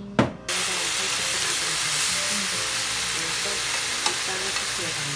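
Sliced pork sizzling as it fries in a hot pan, a steady hiss that starts suddenly about half a second in, just after a single sharp knock.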